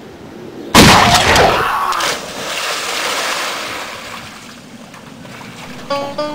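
A person plunging into a swimming pool: a sudden loud splash, then churning water settling over the next few seconds. A plucked banjo tune starts near the end.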